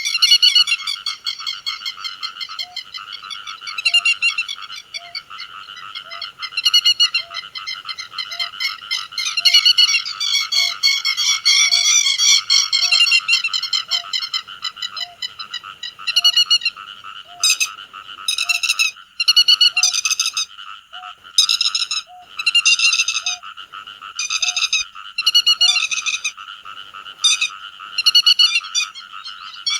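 Grey-headed lapwings calling over and over in loud, high chattering phrases that come in separate clipped bursts in the second half, over a steady background chorus. A faint low note repeats about once a second through the middle.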